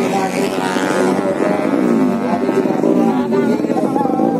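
Racing underbone motorcycle engines revving, the pitch rising and falling in repeated quick blips, several engines overlapping.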